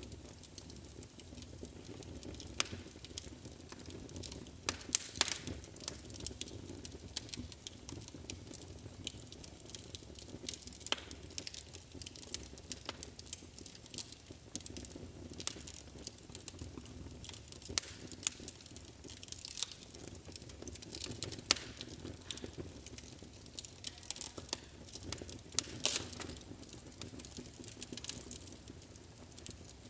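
Wood fire burning in a fireplace, crackling with frequent irregular pops and snaps over a steady low rumble of the flames.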